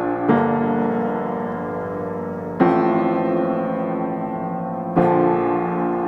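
Background music: slow piano or electric-piano chords, a new chord struck about every two and a half seconds and left to ring.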